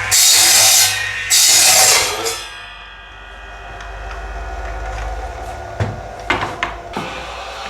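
Woodturning workshop sounds: two loud hissing bursts in the first two seconds over a steady ringing machine tone, then the machine running more quietly, with four sharp wooden knocks near the end.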